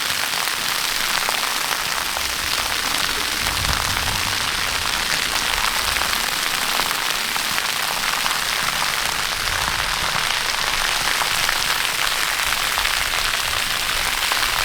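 Waterfall: a steady rush of falling water and spray that holds level throughout.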